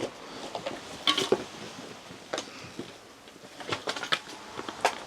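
Hard plastic video cases clattering and clicking against each other as they are handled and moved about, in scattered irregular knocks, with a small cluster about a second in and several more near the end.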